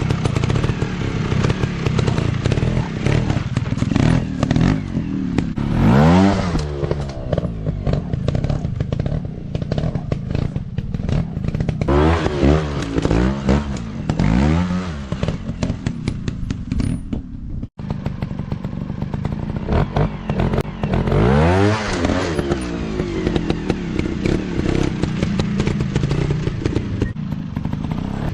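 Dirt bikes riding off-road, their engines revving up and falling back again and again as they pass close by, with many short knocks in between.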